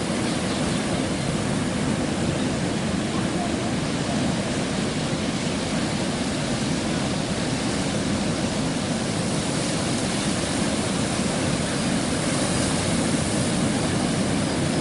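Ocean surf breaking on a beach: a steady rushing noise with no let-up.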